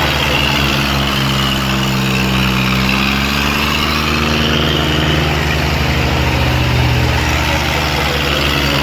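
Tractor diesel engine running steadily at a near-constant speed, its pitch drifting only slightly.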